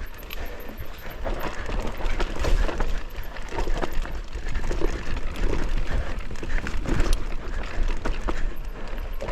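Mountain bike descending a steep, rough dirt trail: tyres scrabbling over dirt and roots, with irregular rattles and knocks from the bike over the bumps and a steady low rumble of wind on the microphone.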